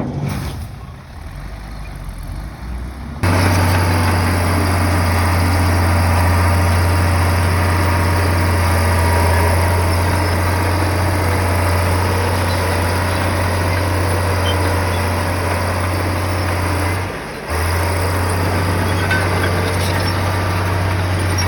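Komatsu bulldozer's diesel engine running at a steady speed, a deep constant drone that starts abruptly about three seconds in and breaks off briefly about 17 seconds in.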